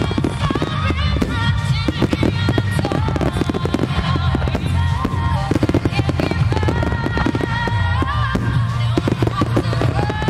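Fireworks bursting and crackling in a dense, unbroken barrage, many reports a second, over loud music with a melody playing along with the show.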